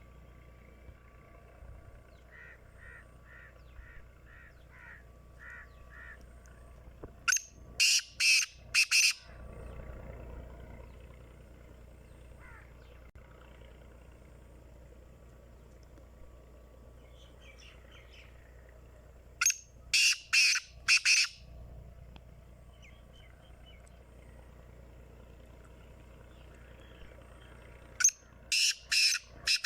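Black francolin calling three times, about ten seconds apart. Each call is a loud, harsh phrase of about four rasping notes. Softer, quick chirps of a smaller bird come in the first few seconds.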